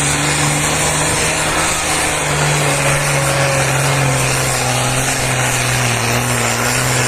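Pulling tractor's diesel engine running flat out under full load as it drags the weight sled down the track. It is a loud, steady drone whose pitch wanders only slightly.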